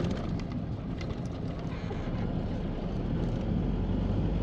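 A motor vehicle engine running steadily, growing slightly louder toward the end, with a few faint clicks.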